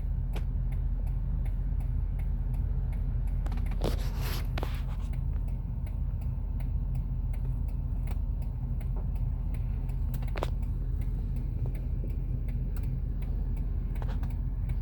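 A steady low engine rumble at idle, with faint regular ticking and a few louder clicks.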